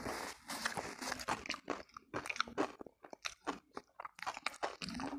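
Close-miked chewing and biting of crunchy food, with a run of sharp crackling crunches and wet mouth noises.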